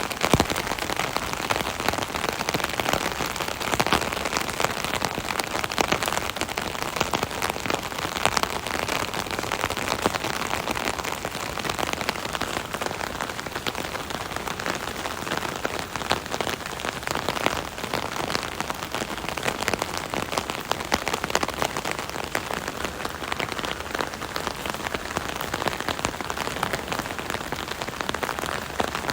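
Steady rain drumming on an umbrella canopy overhead: a dense, even patter of many small drops.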